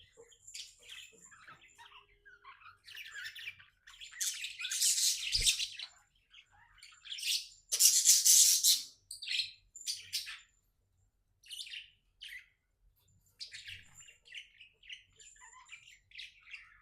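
Budgerigar chirping and chattering in quick, short calls, loudest in two longer spells about four and eight seconds in.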